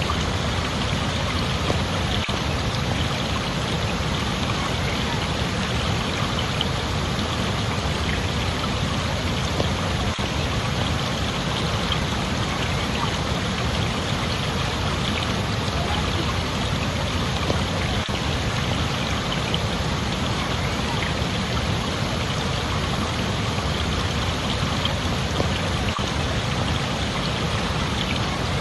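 Steady rushing water, like a stream or small cascade flowing over rocks, an even unbroken wash of sound.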